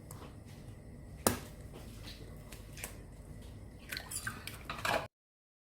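Faint room noise with one sharp click about a second in and a few light knocks and clinks near the end, then the sound cuts off to silence.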